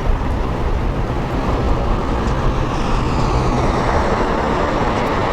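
Jet airliner engines running as the plane passes low overhead on final approach: a loud, steady roar, with a high whine falling in pitch from about halfway through.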